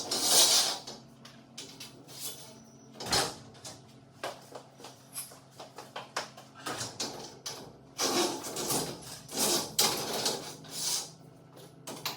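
Irregular clicks, knocks and scrapes of hand work with tools on garage door hardware, over a steady low hum. The sounds cluster about three seconds in and again between eight and eleven seconds.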